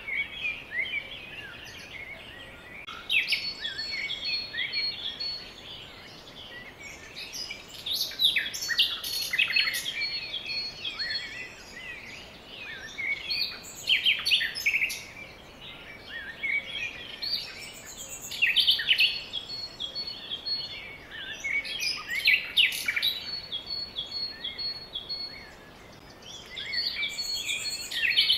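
Songbirds chirping and singing, several overlapping calls in clusters every few seconds, over a faint steady hiss.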